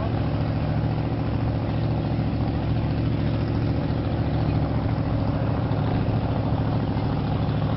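Monster truck's engine running steadily at a constant, low pitch as the truck crawls across the water.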